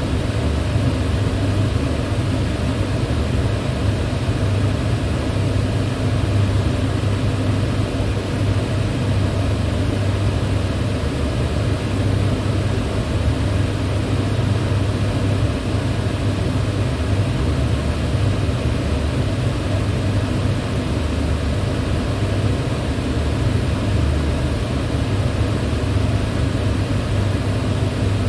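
Electric fan running steadily: a continuous rush of air over a low hum.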